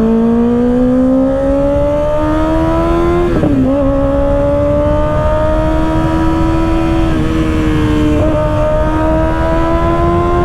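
Kawasaki ZX-6R 636 inline-four engine, fitted with an M4 exhaust, pulling under acceleration. Its pitch climbs steadily and dips briefly three times, about three and a half, seven and eight seconds in, as the rider shifts up through the gears, with wind noise underneath.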